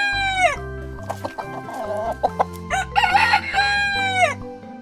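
Rooster crowing: one crow trailing off in the first half second, then a second full crow about three seconds in.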